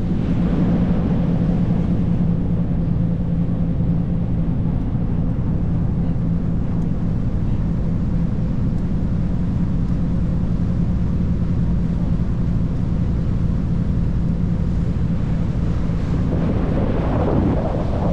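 Steady engine drone with a constant low hum, with wind buffeting the microphone; the wind and water noise grow stronger near the end.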